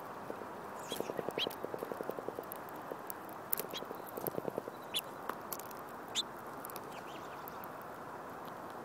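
Small birds at a seed feeder: short high chirps scattered throughout, with two bursts of rapid low tapping, about ten taps a second.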